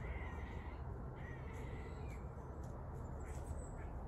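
A few faint, short bird calls, heard several times over a steady low outdoor rumble.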